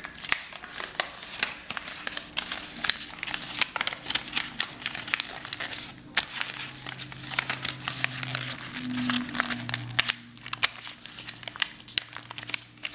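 A sheet of paper being folded and creased by hand into a paper airplane: a run of short crinkles, rustles and crackles of the paper.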